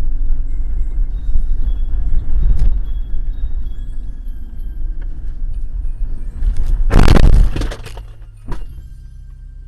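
A car driving with heavy low road rumble, then about seven seconds in a loud collision lasting about a second, with crunching and breaking, followed by a lighter knock.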